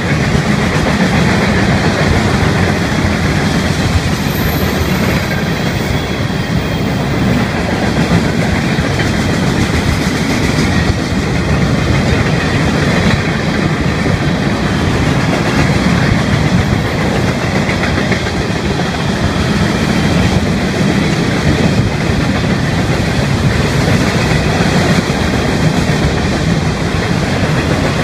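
Freight cars of a long Florida East Coast Railway train rolling past, their steel wheels on the rails making a steady, loud rumble that holds without let-up.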